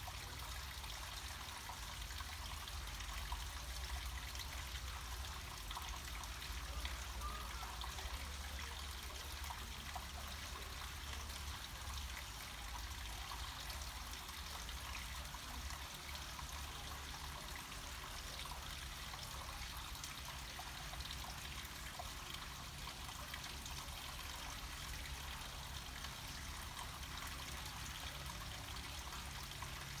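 Water trickling and running steadily down a small mountain slope, an even, unbroken splashing with no pauses.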